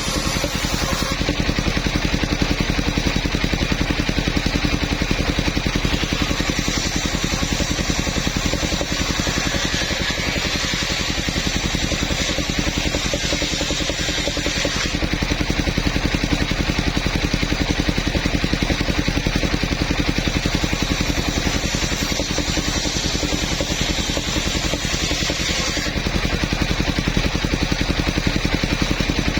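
Engine of a portable sawmill running steadily with a fast, even firing beat.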